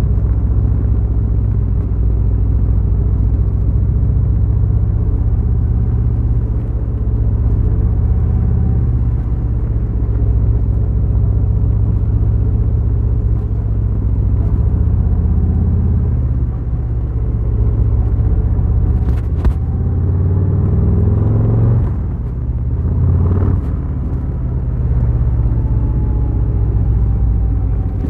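Harley-Davidson Fat Boy's V-twin engine running under way, a steady low rumble. About two-thirds in, the engine note rises and then dips, with a couple of short clicks.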